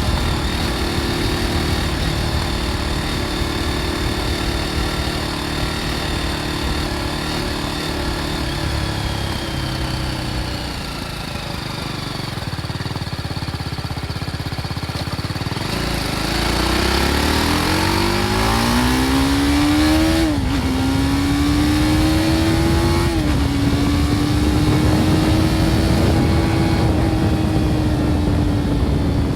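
BMW G310 R's 313 cc single-cylinder engine through its stock exhaust. It holds a steady speed, then slows and falls in pitch. From about halfway through it accelerates hard through two upshifts, each a sudden drop in pitch, and settles into a steady cruise.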